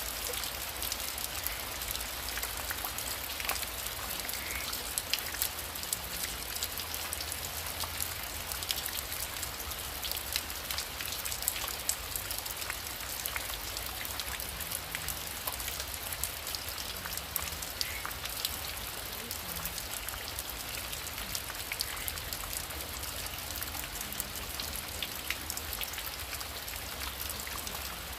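Heavy rain falling steadily: a dense, even hiss thick with separate drops ticking.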